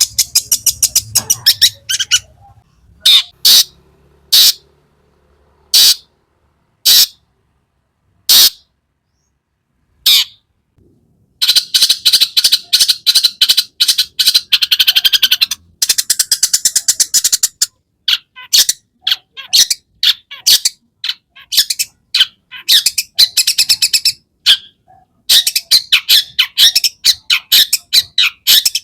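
Long-tailed shrike (cendet) singing: scattered single harsh notes with a short pause over the first ten seconds or so, then long, fast chattering runs of notes.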